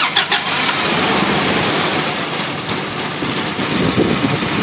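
A car engine starting, with a few sharp clicks at the start, then running steadily.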